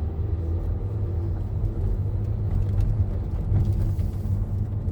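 Steady low rumble of a car heard from inside the cabin: engine and road noise, with no change in pace.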